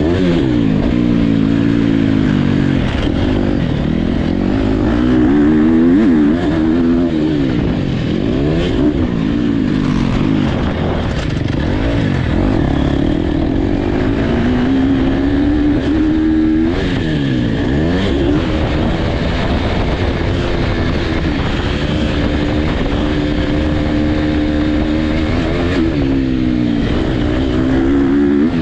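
Motocross dirt bikes racing, their engines revving hard and backing off over and over, pitch climbing and dropping with each throttle and gear change.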